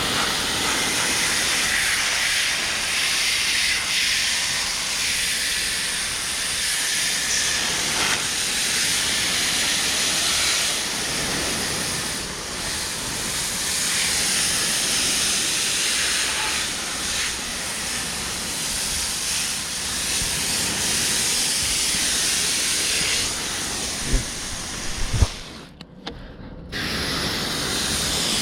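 Garden hose spray nozzle on its flat setting, spraying water onto an air conditioner's condenser coil: a steady hiss. Near the end there are two knocks, then the spray stops for about a second and starts again.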